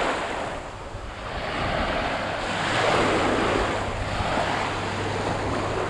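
Sea surf: small waves breaking and washing in, in slow swells every couple of seconds, with wind buffeting the microphone.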